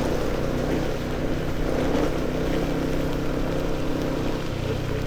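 Motorcycle engine running steadily while riding, with wind and road noise over the microphone; the engine note changes slightly near the end.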